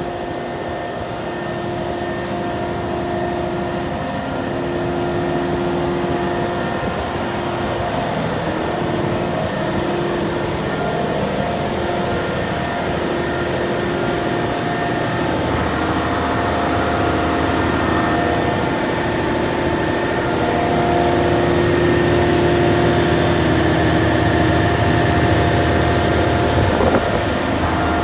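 Caterpillar 740B haul truck's C15 diesel engine running steadily, growing slowly louder, with a deeper low rumble joining about halfway through.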